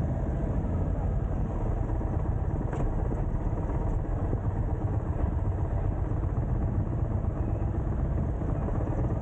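Indian motorcycle on the move at steady speed, a continuous low rumble of engine and road noise with no change in pace.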